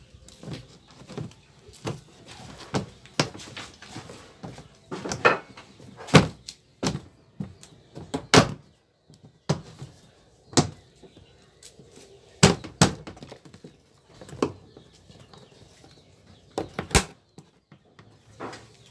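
Irregular sharp knocks and clatter as a twin-tub washing machine's cover is fitted back into place from above, about a dozen distinct hits spread through the stretch.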